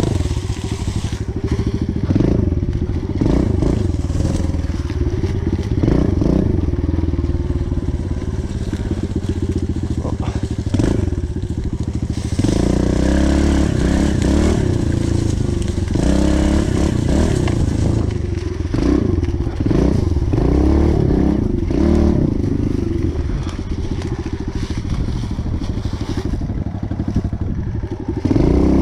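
Pit bike engine being ridden, its revs rising and falling over and over as the throttle is opened and closed.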